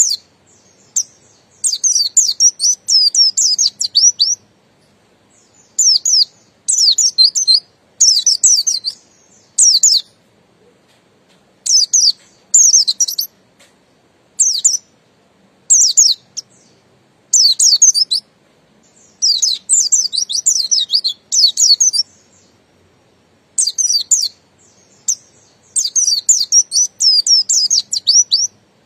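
Pleci buxtoni white-eye singing in the long, wild-style 'ngalas' manner: phrases of rapid, high, sweeping twitters, each about one to three seconds long, repeated with short pauses.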